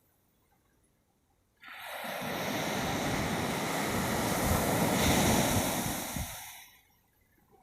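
An ocean wave breaking: after a near-silent start, a sudden rush of surf begins about a second and a half in, swells, then fades out about five seconds later.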